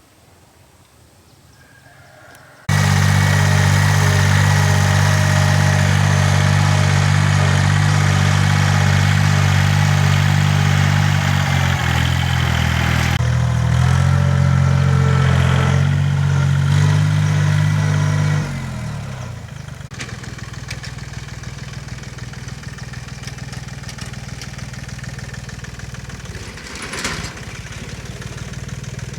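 A farm tilling machine's engine comes in suddenly about three seconds in and runs loud and steady. A little past halfway its pitch slides down and it settles to a quieter, lower steady run.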